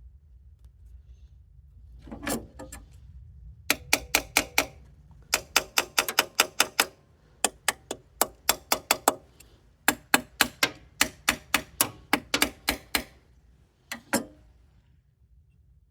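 A hand tool working on engine metal: runs of sharp, quick metallic clicks or taps, about five or six a second, coming in several bursts with short pauses between them.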